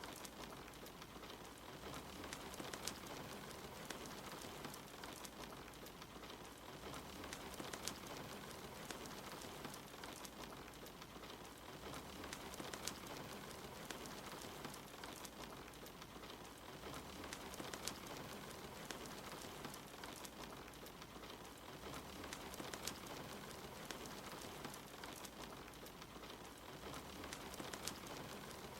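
Steady rain falling, with a wood fire crackling in scattered sharp pops over the even hiss.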